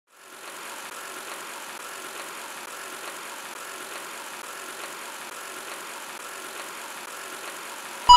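Robot vacuum cleaner running: a steady, even motor-and-fan whir that fades in just after the start.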